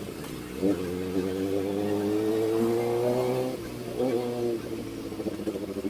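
Kawasaki ZX-4RR's 399 cc inline-four through an SC Project aftermarket exhaust, ridden in traffic: the throttle opens about half a second in and the engine pulls with slowly rising revs for about three seconds, then drops off sharply, picks up briefly, and settles at lower, uneven revs.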